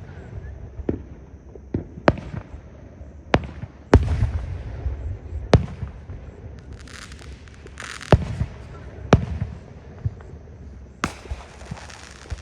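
Fireworks display: a string of sharp booms from bursting aerial shells at irregular intervals, roughly a second apart. Stretches of crackling fizz from crackle effects come between some of the bangs, twice in the second half.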